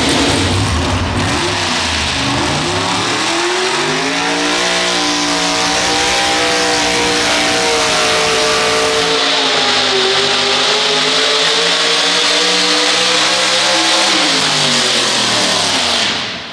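Pulling tractor's engine at full throttle during a pull: the pitch climbs over the first few seconds, wavers while held high with a brief dip midway, then falls away near the end before cutting off suddenly.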